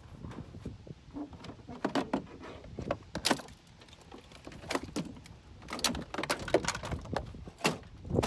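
Scattered metallic clicks, clinks and knocks of hand work on a car door's inside panel and window parts, some with a brief ring.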